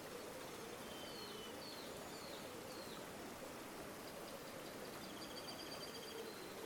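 River water flowing steadily, with birds calling over it: a few short whistled chirps in the first three seconds and a fast trill about four to six seconds in.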